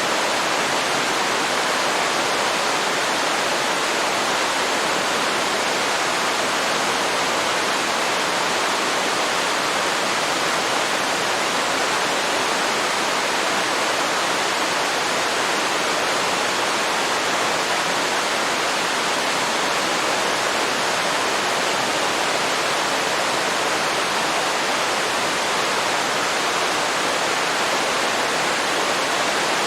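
Waterfall pouring into a river: a steady, even rush of falling water.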